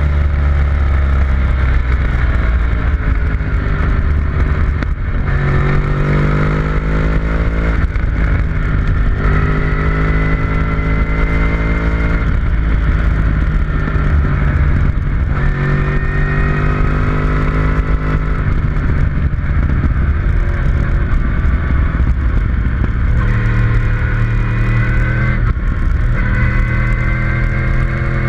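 Onboard engine sound of a vehicle at speed on a race track, revving hard with the engine note climbing and then dropping again at each gear change, several times, under a steady rush of wind noise.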